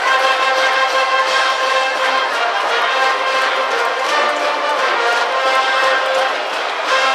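High school cheering brass band playing a cheer tune, trumpets and trombones holding long sustained notes at a steady loud level.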